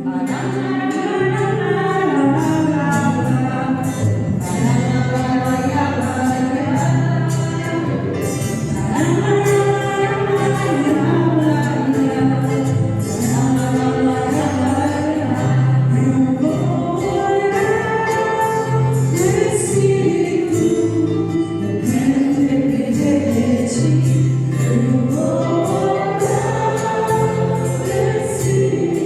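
Christian worship song: voices singing over accompaniment, with light percussion ticking in a steady beat.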